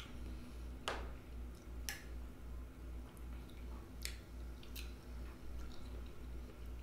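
Chewing of soft, wet melon pieces, with a few sharp clicks of a metal fork against a drinking glass.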